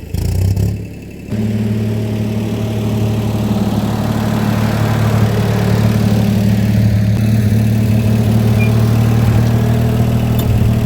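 Case 480 backhoe's four-cylinder gasoline engine running steadily at low speed, slowly growing louder after a brief break about a second in.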